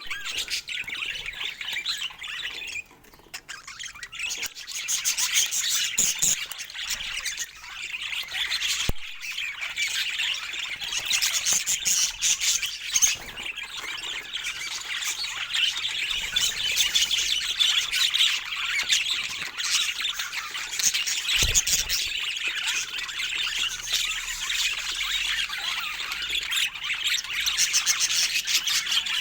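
Budgerigars warbling and chattering nonstop, a dense run of chirps, squawks and clicks, with a short lull about three seconds in.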